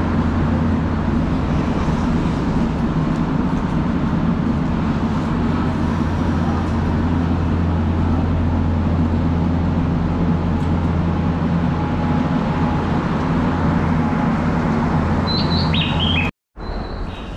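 Steady low hum and rumble of an electric train standing at the platform, its onboard equipment running. Near the end come a few short high chirps, then the sound cuts out for a moment.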